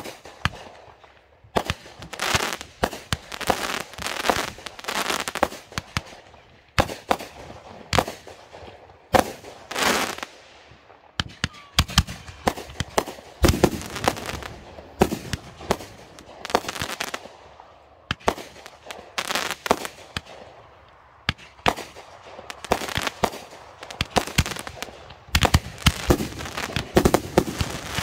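Consumer fireworks cakes going off in rapid succession: repeated sharp bangs of bursting shells, some followed by a second or two of crackling, one volley after another with no real pause.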